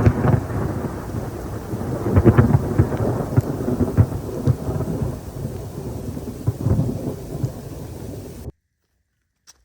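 Loud, low rumbling noise that swells and fades unevenly, cutting in suddenly and cutting off abruptly about eight and a half seconds in.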